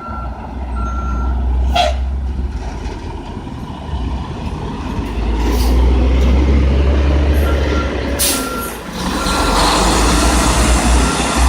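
Dump truck diesel engines running while manoeuvring, with a reversing alarm beeping at a steady pace at the start and again from about seven seconds in. Two short air-brake hisses, one about two seconds in and a louder one about eight seconds in.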